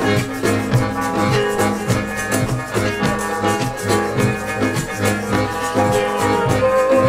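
Band music with a steady beat, a rattling percussion part and several pitched instruments, with a long held note coming in near the end.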